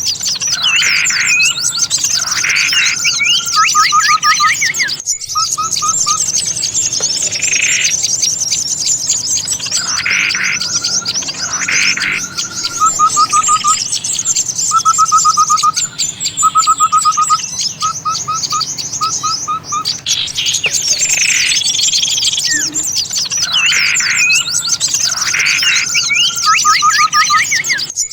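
A dense chorus of small songbirds chattering and calling, with short rapid trills between louder calls. It is a bird-lure recording whose call sequence repeats like a loop, and the sound drops out briefly about five seconds in.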